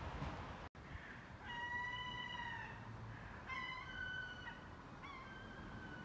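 A bird calling three times outdoors: long, steady-pitched calls of about a second each, the last two opening with a short lower note before stepping up.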